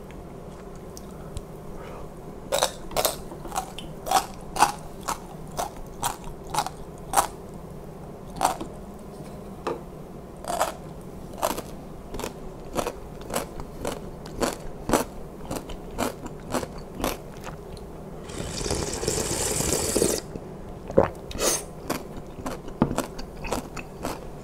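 Close-miked chewing of crunchy yellow pickled radish: sharp wet crunches and clicks, a few each second. A loud rush of noise lasting about two seconds comes near the end.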